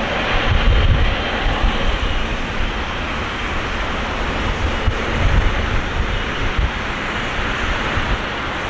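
Steady rushing noise from a Boeing 777-300ER's engines and airflow, with gusty low rumbling of wind on the microphone.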